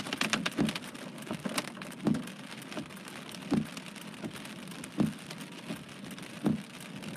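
Heavy rain with large drops: a steady hiss of rainfall with individual drops striking a surface in irregular sharp taps, several a second.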